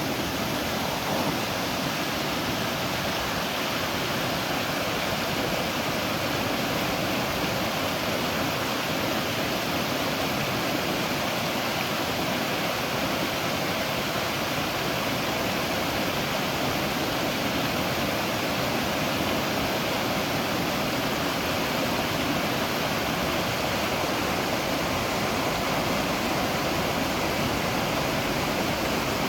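Waterfall, water falling and splashing in a steady, even rush with no pauses or changes.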